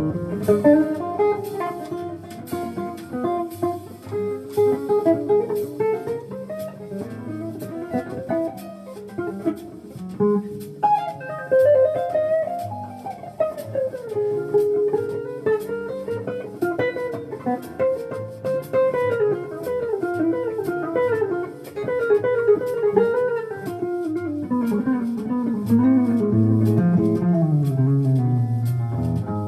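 Jazz guitar playing running single-note melodic lines that climb and fall, with a bass line underneath.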